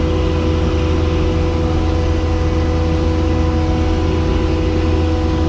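Skid steer's diesel engine running at a steady speed: a constant low drone with a steady whine over it.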